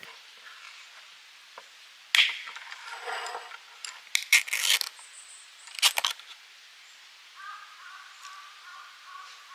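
A beer can cracked open with a sudden hiss about two seconds in, followed by a few sharp clinks and knocks of the can and tableware.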